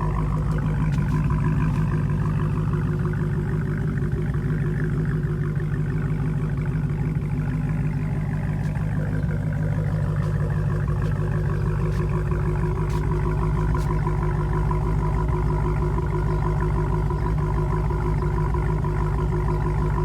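Supercharged 6.2-litre HEMI V8 of a 2016 Dodge Hellcat idling steadily after a cold start, its exhaust running through Vibrant mid mufflers.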